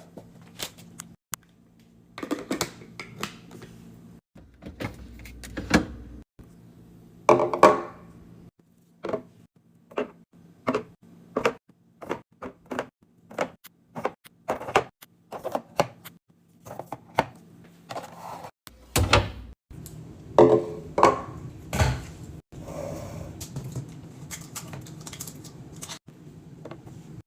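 Restocking sounds: packaged food and containers handled and set down on shelves. They make a run of sharp clicks and taps about once a second, with a few heavier thunks about two-thirds of the way through.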